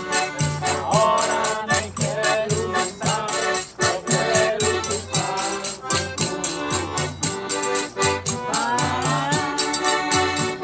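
Accordion (sanfona) playing a lively tune over a quick, steady beat with pulsing bass notes.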